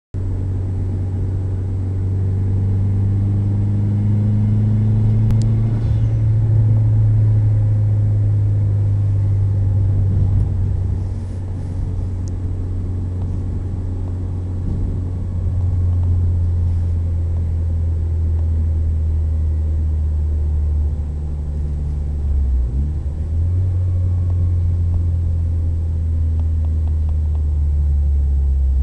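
The Mitsubishi Lancer Evolution IX's turbocharged 2.0-litre four-cylinder engine and exhaust give a steady low drone at cruising speed, heard inside the cabin along with road noise. The drone breaks briefly a little after twenty seconds in, then settles again.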